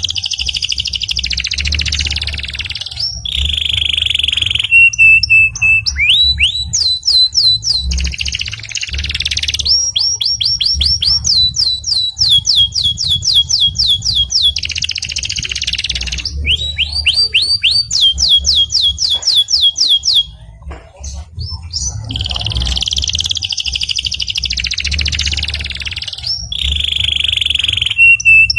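Domestic canary singing a long, loud song of buzzy rolls, held notes and rapid trills of repeated rising chirps. It breaks off briefly about twenty seconds in, then starts the same phrases again.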